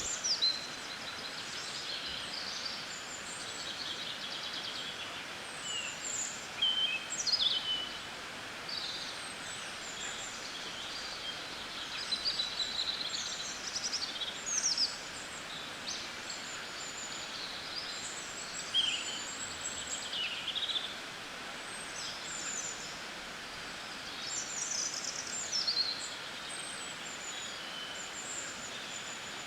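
Songbirds chirping and singing: scattered short high calls and quick sweeping notes, some in little clusters, over a steady background hiss.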